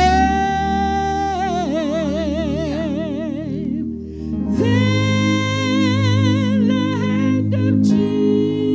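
Gospel singing: a solo voice holds two long notes, each breaking into a wide vibrato, with a short gap near the middle, over sustained low accompaniment chords.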